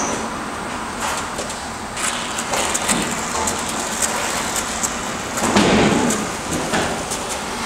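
Urethane foam gun spraying expanding foam into a gap, a steady hiss with a few small clicks from the gun.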